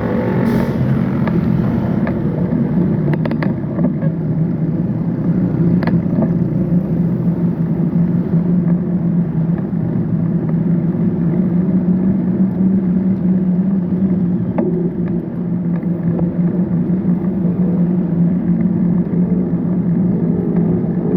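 A motor vehicle's engine running at a steady speed, a constant hum, with a few short clicks over it.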